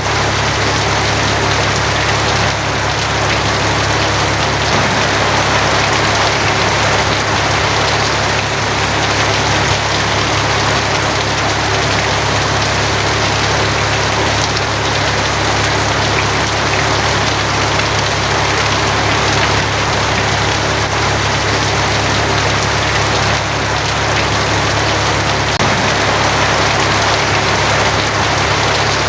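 Steady rain on a tin roof, an even hiss of drumming drops with no break or swell, over a steady low hum.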